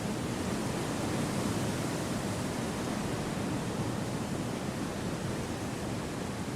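Wind blowing through forest trees: a steady, even noise, heaviest in the low range, with no distinct events.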